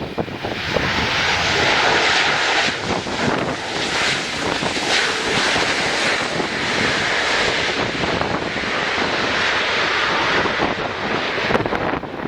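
Boeing jet airliner's engines giving a steady, loud jet rush as it comes in to land. Strong crosswind gusts buffet the microphone on top of it.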